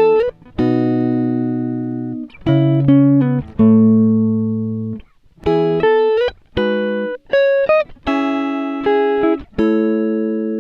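Background music: a plucked guitar playing separate notes and chords, each one ringing and fading, in short phrases.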